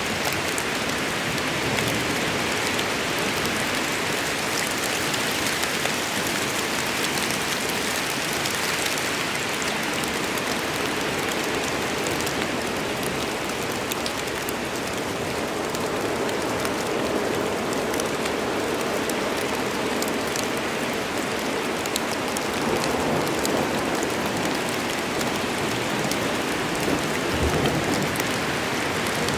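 Steady heavy rain falling on forest foliage and ground, an even hiss with scattered drips and patters.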